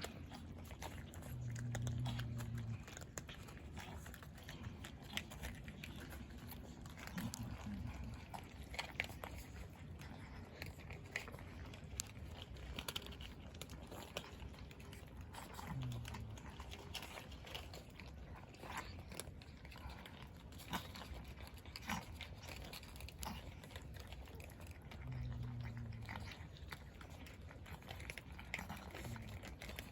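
Cats crunching dry food, a steady scatter of small crisp crunches and clicks. A few short low-pitched sounds, each up to about a second long, come through now and then.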